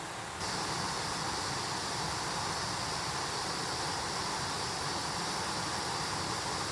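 Mountain stream rushing over rocks, a steady noise that jumps abruptly louder about half a second in.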